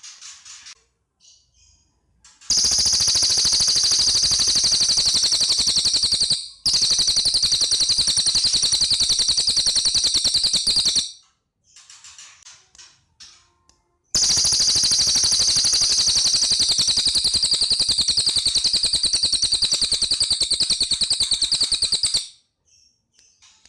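Cililin bird singing: two long, loud, very rapid machine-gun-like trills of about eight seconds each, the first with a brief break, with softer short chirps before, between and after them.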